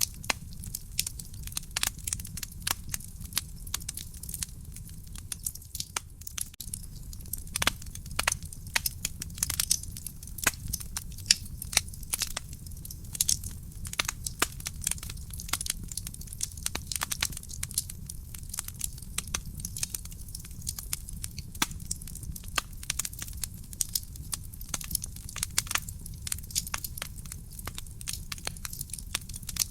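Wood fire burning in a fireplace: a steady low rumble of the flames with dense, irregular crackles and pops from the burning logs.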